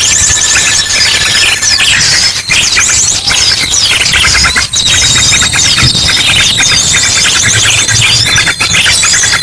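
Bird-lure recording: a loud, dense chorus of small birds chattering and squeaking over one another, mixed with ashy drongo calls. A long, even trill runs under the chatter for the first two seconds, and another, higher one starts about halfway through.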